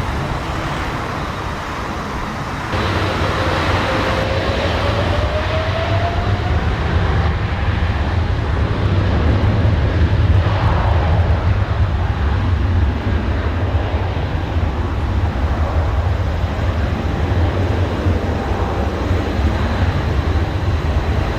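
Jet engine roar of a Boeing 777-300ER with its GE90 turbofans, landing, with a deep rumble underneath. About three seconds in the noise steps up and an engine whine climbs in pitch over a few seconds.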